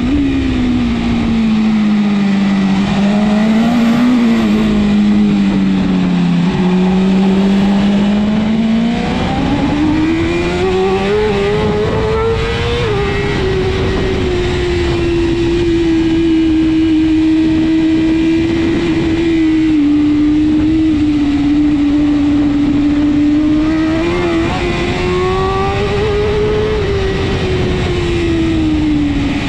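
BMW S1000RR inline-four superbike engine under race load. The revs sag over the first several seconds, climb hard to a peak about twelve seconds in, drop with a gear change, hold fairly steady, then rise again and ease off near the end.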